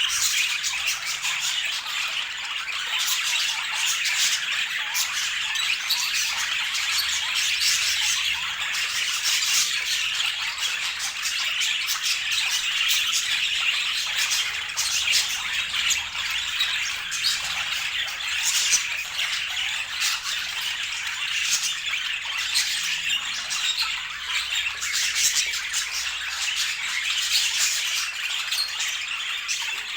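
Budgerigars chirping and chattering without a break, a dense stream of short high calls.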